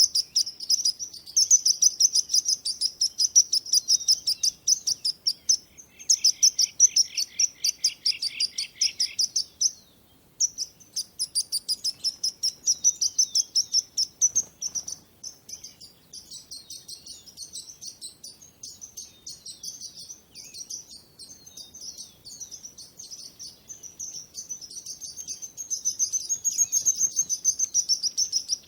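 Birds chirping in a dense, rapid chatter of many short high notes. The chatter drops out briefly about ten seconds in, is quieter through the middle, and builds again near the end.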